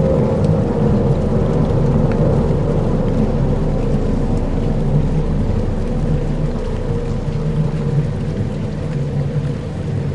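Dark ambient soundscape: a steady low, rumbling drone with faint held tones and a light rain-like hiss over it.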